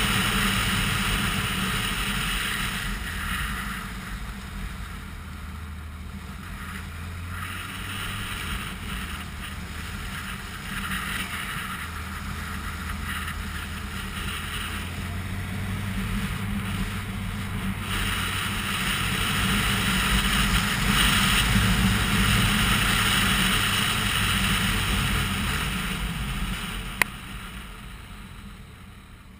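Motorcycle engine running while riding, with wind rushing across the microphone. The engine note shifts a few times as the speed changes, and the sound grows louder toward the middle and fades near the end. There is one sharp click shortly before the end.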